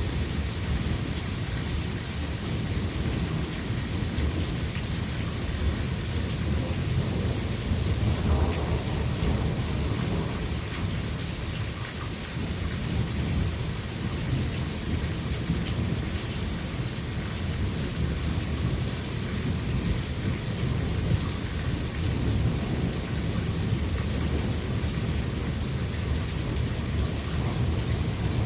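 Thunderstorm: steady heavy rain with a deep rumble of thunder that swells and fades through the stretch.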